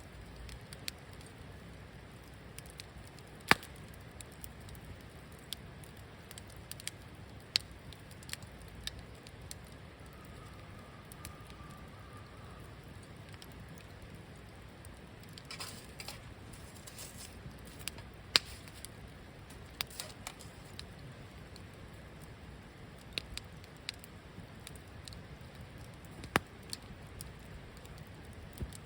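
Wood fire crackling in a campfire, with sharp pops at irregular intervals, a handful of them much louder than the rest, over a faint steady background.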